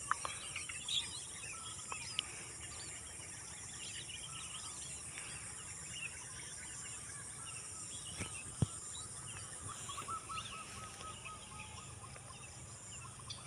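Wild birds chirping and warbling in short phrases over a steady high chorus of insects, with one sharp click about eight and a half seconds in.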